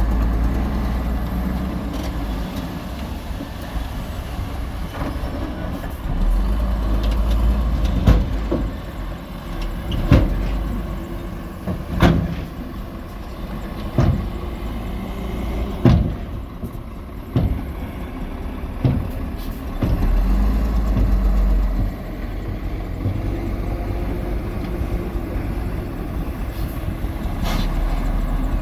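Heavy diesel earthmoving machinery running steadily, with a series of sharp knocks roughly every two seconds through the middle of the stretch.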